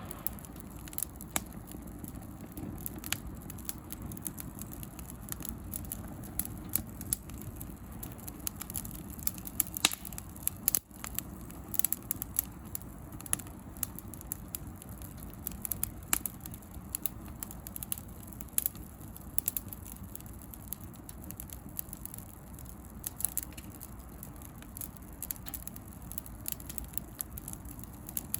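Bonfire of dry pruned branches crackling, with frequent irregular sharp pops and ticks from the burning wood and a few louder pops partway through.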